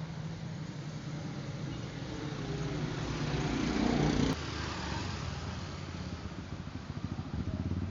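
A motor vehicle engine running, growing louder until about four seconds in, then cutting suddenly to a lower, pulsing rumble.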